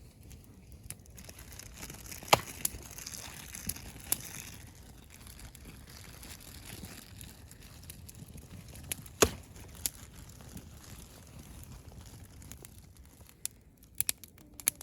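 Wood campfire crackling, with a few sharp pops spread out and a quick run of pops near the end.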